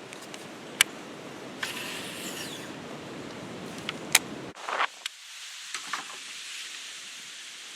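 Wind buffeting the microphone, dropping away a little past halfway, with several sharp clicks and a short whir about two seconds in.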